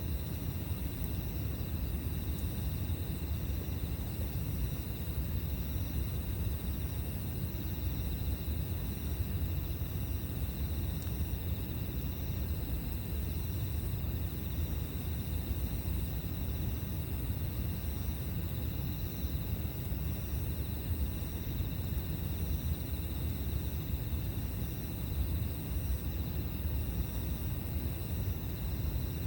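Steady chirring of insects in several high, unbroken tones, one of them pulsing on and off every few seconds, over a continuous low rumble.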